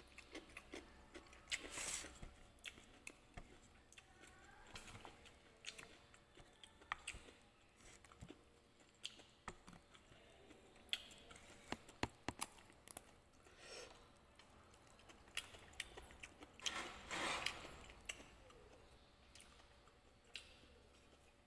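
Chewing food, with scattered sharp clicks of wooden chopsticks against a clay pot.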